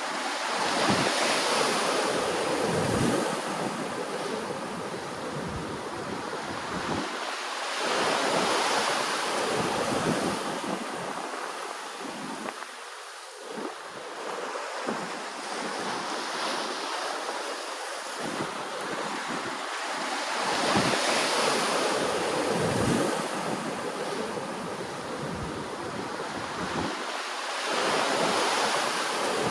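Ocean waves washing in, the surf swelling and easing off about every five to seven seconds in a steady rushing hiss.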